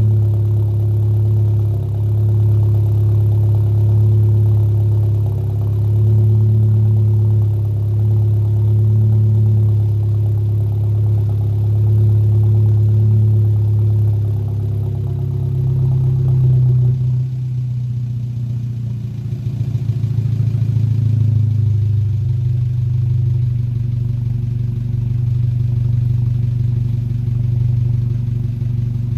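Car exhaust with an aftermarket downpipe and AWE Track cat-back, running with a steady deep drone. About 17 seconds in, the note changes: it rises briefly, turns rougher, then settles into a steady drone again.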